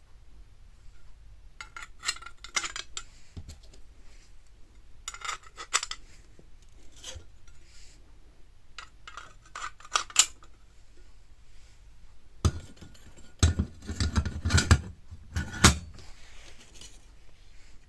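Metal parts of a fire pit clinking and clattering as they are handled and fitted together, in several short bursts. The busiest and loudest run comes about two-thirds of the way through, with heavier knocks among the clinks.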